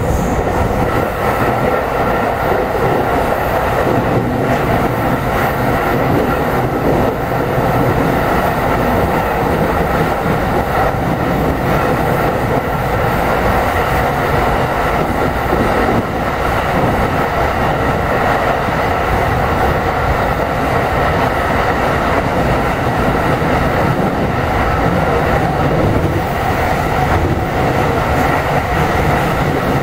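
Steady running noise inside a JR East E217 series commuter train car cruising between stations: a continuous rumble of wheels on rail with a faint clickety-clack.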